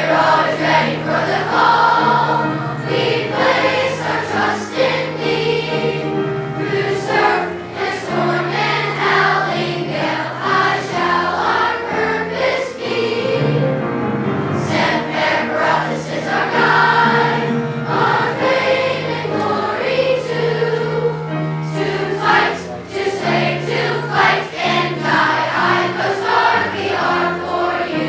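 Children's choir singing a patriotic song over an instrumental accompaniment of held low notes.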